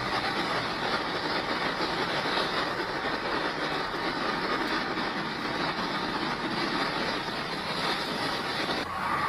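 Strong storm wind blowing: a steady rushing noise with no pitch to it, changing slightly near the end.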